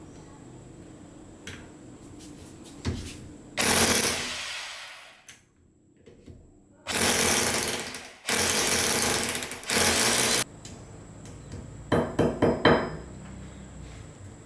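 Power drill run in three short bursts, the longest about two seconds, each stopping abruptly. A few quick sharp knocks follow near the end.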